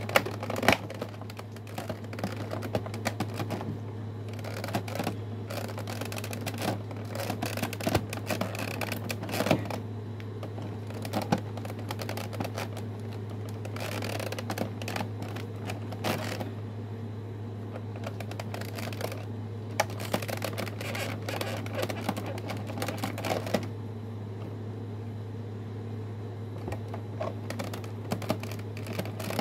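Toy box packaging being worked open by hand: irregular clicks, taps and crinkles of cardboard and plastic, over a steady low hum.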